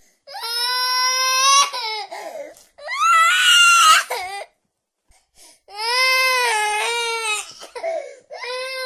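Baby crying: four long wailing cries with short breaks between.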